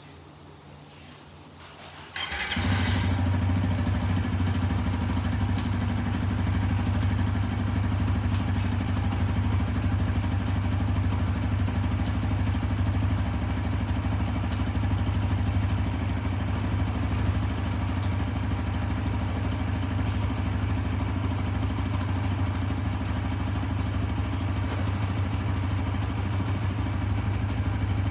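Suzuki GSX-S150's single-cylinder engine started about two seconds in, catching at once and then idling steadily.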